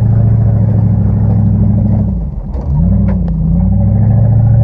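Dodge Ram pickup's engine pulling steadily up a steep dirt trail; a bit past two seconds in the engine note drops away briefly, then picks back up and rises again. A few sharp knocks or rattles come around the dip.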